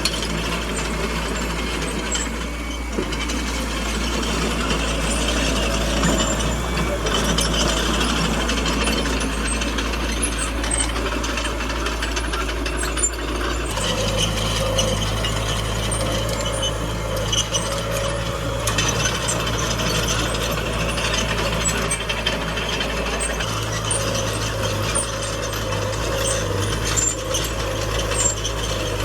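Small crawler bulldozer at work: its diesel engine runs steadily under load, with a constant clanking and rattling of the steel tracks and undercarriage. The engine note shifts a couple of times as the load changes.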